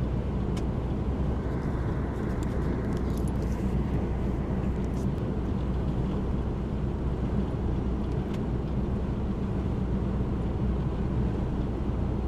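Steady low drone of a vehicle's engine and tyres cruising at motorway speed, with a few faint ticks.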